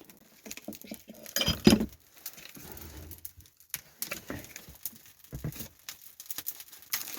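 Freshly lit small campfire crackling: scattered sharp clicks and pops as the kindling catches, with a louder burst of crackle about a second and a half in.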